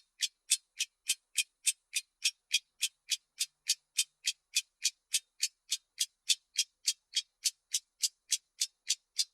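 Clock ticking sound effect: rapid, even, crisp ticks, about three and a half a second, each alike.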